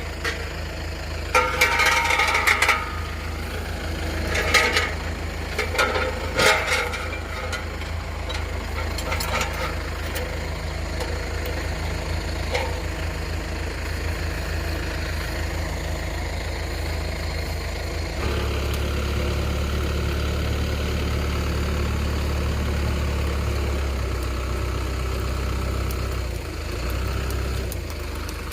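A vehicle engine idling steadily, getting louder about two-thirds of the way through and easing back near the end, with a few short clanks in the first several seconds.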